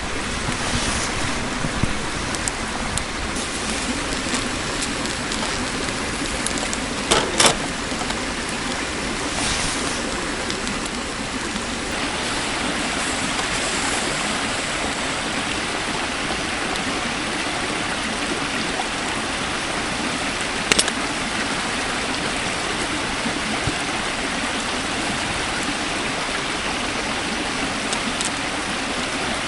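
Steady rushing of running water, with two short sharp clicks, about seven and twenty-one seconds in.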